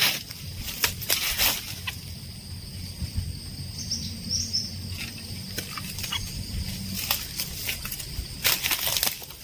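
Outdoor forest sound: short rustling and crackling noises, loudest near the end, over a steady high-pitched hum, with a few faint bird chirps about four seconds in.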